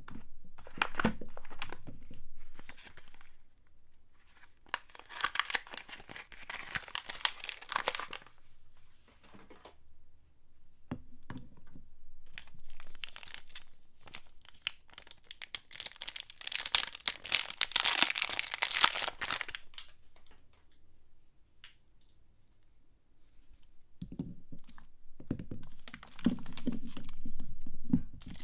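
Soap packaging being torn open and crinkled by hand, in two long stretches of crackly tearing, with duller handling knocks near the end.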